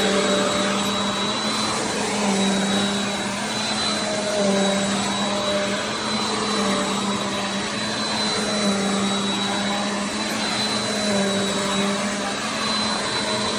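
Bissell CleanView Compact upright vacuum running steadily: a constant motor whine over rushing airflow, with the pitch wavering slightly now and then.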